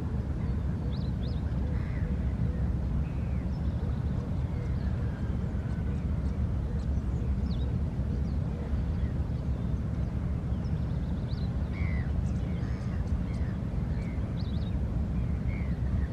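A steady low rumble with many short bird calls and chirps scattered over it.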